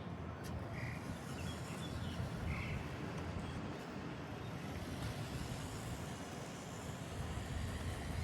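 Motorised LEGO RC car driving: its BuWizz motor and LEGO gearbox running and its wheels rolling over the ground, heard as a steady low rumbling noise.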